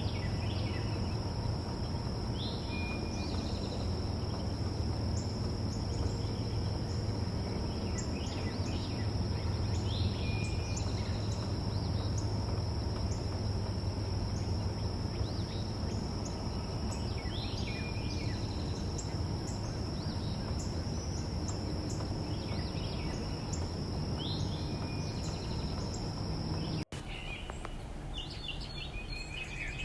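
Backyard ambience: scattered short bird chirps over a steady high-pitched insect drone and a low background rumble. After an abrupt cut about 27 seconds in, the drone is gone and a quick run of chirps follows.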